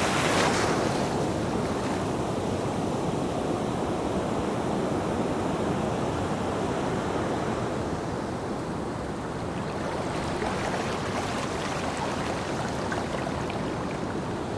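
Ocean waves washing onto a beach: a bright hiss of surf dies back in the first second, a softer steady wash follows, and another wave swells in about ten seconds in.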